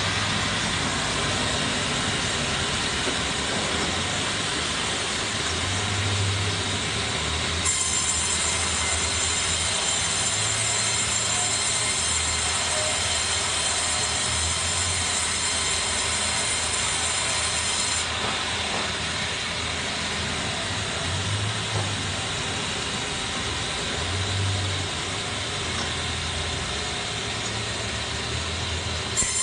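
Sawmill machinery running with a steady mechanical noise and a low hum; the high hiss grows brighter for about ten seconds in the middle.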